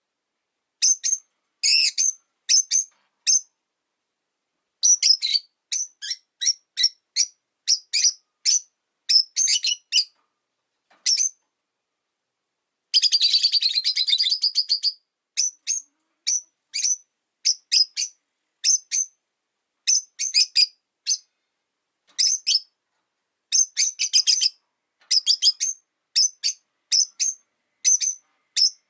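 Rosy-faced lovebirds chirping: short, sharp, high-pitched chirps in quick bunches of a few at a time, with silent gaps between them and a longer rapid chattering run about 13 seconds in.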